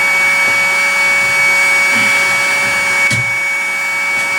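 Hot air rework station blowing steadily, a fan hiss with a constant high whine, heating the BGA socket for desoldering. A single sharp click about three seconds in.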